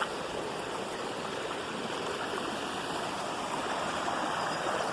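Rainwater runoff rushing steadily down a normally dry drainage ditch during flash-flood rain.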